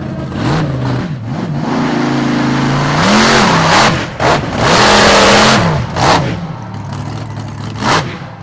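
Monster truck engine revving in quick throttle blips, with two longer full-throttle runs about three and five seconds in.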